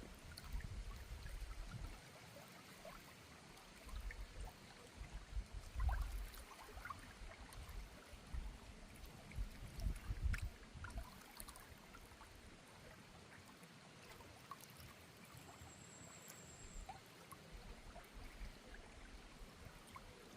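Faint flowing river water, with irregular low rumbles and scattered small ticks; a brief high trill sounds about three-quarters of the way in.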